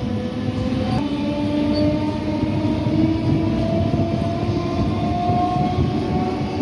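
Electric suburban local train running on the rails, heard from inside the coach: a steady rumble of wheels on track under a motor whine that slowly rises in pitch as the train gathers speed.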